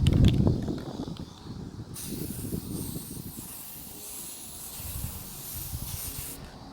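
Aerosol spray paint can spraying, a steady hiss that starts about two seconds in and cuts off sharply near the end. A low rumble at the very start is the loudest sound.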